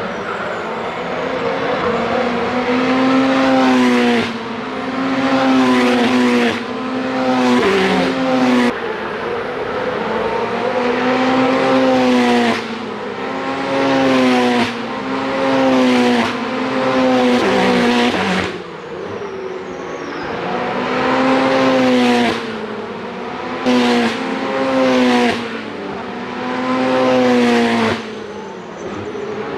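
Ferrari Challenge race car engines at full racing pace, the pitch climbing under acceleration and dropping sharply again and again at gear changes, with the sound swelling and easing every couple of seconds.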